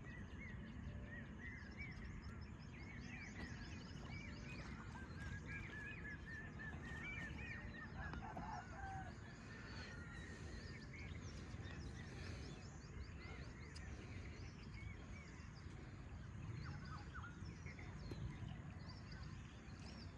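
Birds chirping and calling in many short, quick notes, busiest in the first half, over a faint, steady low rumble of outdoor ambience.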